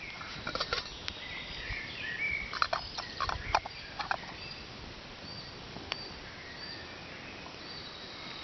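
Onion frying and sizzling in a pan, with clusters of knocks and clatter from a cooking utensil about half a second in and again around three seconds in. Small birds chirp faintly now and then.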